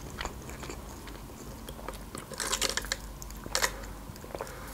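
Quiet, close-miked mouth sounds of eating: chewing with small wet clicks and smacks, and a sip through a drinking straw near the end.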